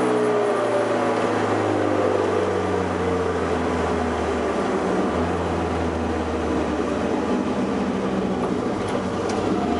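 TA22 Toyota Celica's 18R-G twin-cam four-cylinder engine coming off the throttle, its note falling over the first few seconds, then running at steadier, lower revs under a constant rush of wind and road noise.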